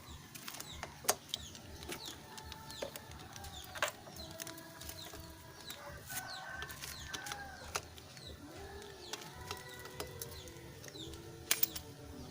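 Chickens clucking in drawn-out calls, with small birds chirping in short falling notes, over scattered sharp clicks and taps.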